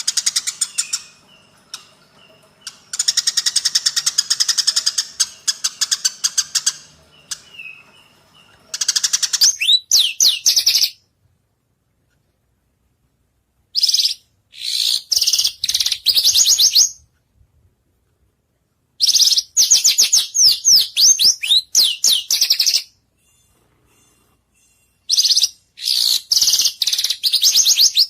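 White-rumped shama (murai batu) song: bouts of fast, rapidly repeated high notes and trills, each lasting one to two seconds, broken by short gaps of complete silence.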